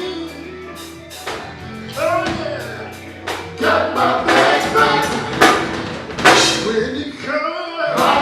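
Live gospel music: a lead singer singing with backing voices over a band with drum kit, cymbal hits and a steady bass note.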